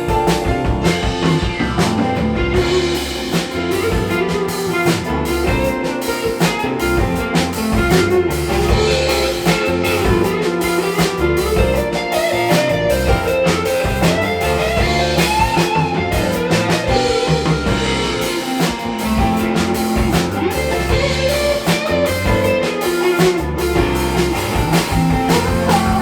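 A band plays an instrumental break in a slow pop song: a guitar carries a gliding lead melody over a steady drum kit beat and bass.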